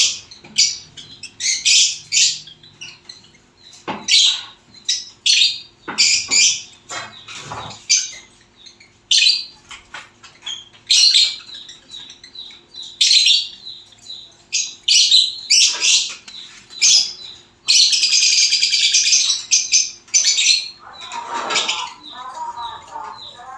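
Baby birds chirping: many short, high-pitched cheeps in quick succession, with one longer unbroken call of about two seconds partway through and a lower, rougher call near the end.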